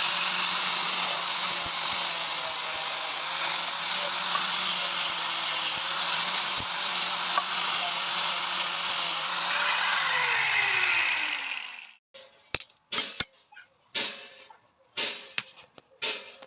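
Electric grinder working on metal with a steady hiss, then switched off: its motor hum drops in pitch as it winds down and stops about twelve seconds in. A few light metal clinks and knocks follow.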